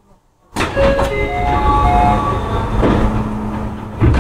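Electric train noise close by. It starts abruptly about half a second in and drops away about four seconds later, with several steady tones stepping up in pitch.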